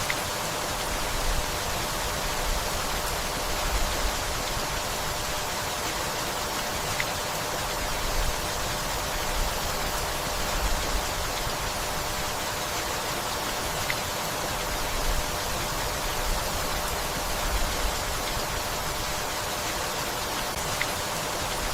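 Steady, gentle rainfall, an even hiss of rain on leaves, with brief low swells every second or two.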